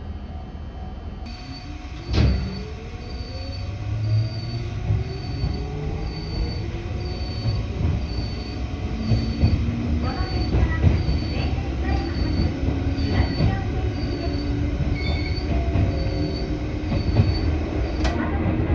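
Electric train pulling away, its motor whine rising steadily in pitch over the rumble of wheels on rail, with a loud clunk about two seconds in. A high electronic pip repeats a little over once a second.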